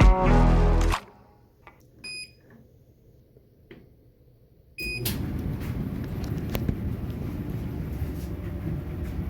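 Electronic clothes dryer control beeps once about two seconds in and again just before the drum starts, then the dryer runs with a steady low rumble from its tumbling drum and motor.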